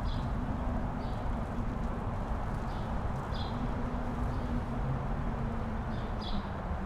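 Wind blowing steadily across a mountain top, with short high bird chirps every second or so.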